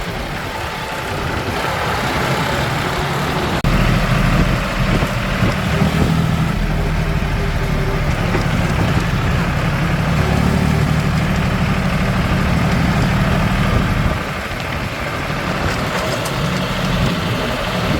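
Tractor engine running steadily, getting louder about four seconds in and dropping back near fourteen seconds.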